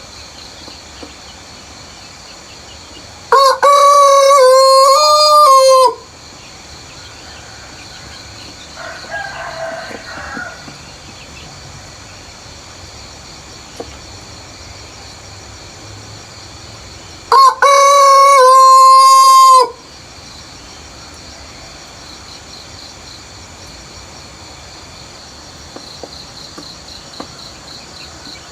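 A rooster crowing twice, each loud cock-a-doodle-doo lasting about two and a half seconds, the first a few seconds in and the second past halfway. A fainter bird call sounds between them, over a steady background of high chirping.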